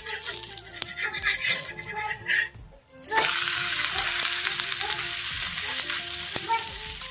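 Faint background music, then about three seconds in a dosa starts sizzling loudly in oil on a hot pan, a steady hiss that lasts to the end.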